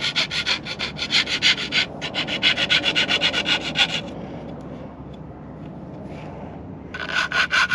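Rapid back-and-forth hand rubbing strokes on a hacksaw-cut metal part, cleaning up the cut end. The strokes stop about four seconds in and start again near the end.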